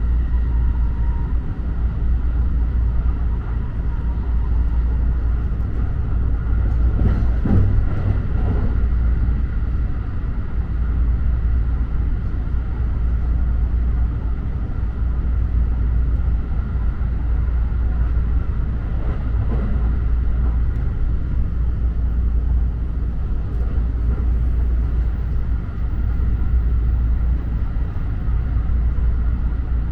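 Interior sound of a JR electric commuter train running: a steady low rumble with a faint steady whine above it, swelling briefly louder about seven seconds in and again around twenty seconds.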